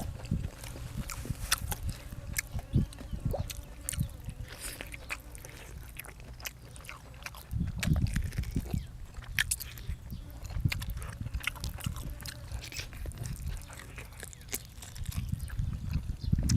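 A person chewing and biting food close to the microphone: many short wet clicks scattered throughout, with louder, lower stretches of chewing about halfway through and near the end.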